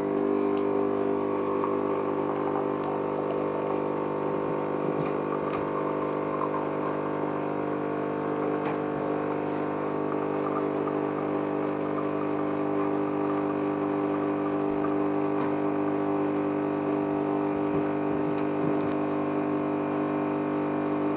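De'Longhi ESAM1000SJ fully automatic espresso machine running with a loud, steady hum and a few faint crackles.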